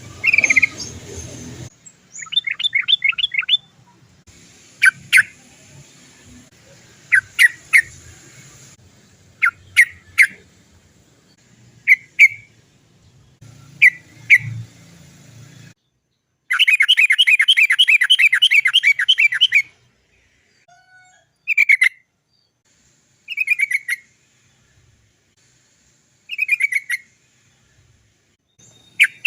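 Yellow-vented bulbul (trucukan) singing: short bubbly 'cok cok' phrases of a few quick notes, and about halfway through a long fast rolling run of notes lasting about three seconds.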